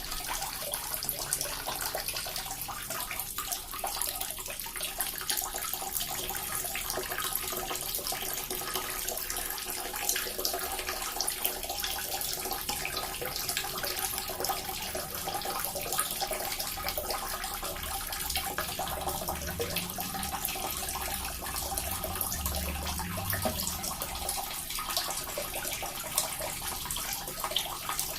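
Small water fountain running steadily, water splashing and trickling into a basin.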